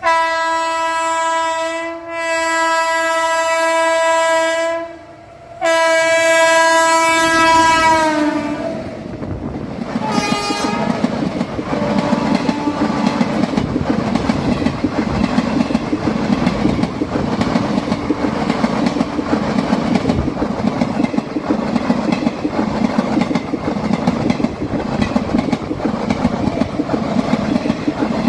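Indian Railways locomotive horn sounding three long blasts, the last one dropping in pitch as the locomotive passes close by, with a short fainter horn after it. Then the blue automobile carrier wagons roll past at speed: a steady rumble with the clickety-clack of wheels over rail joints.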